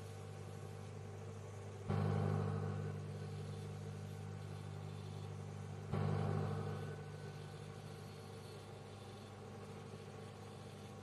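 Microwave oven running with a steady hum. About two seconds in and again about six seconds in it suddenly swells louder, then settles back over a second or so.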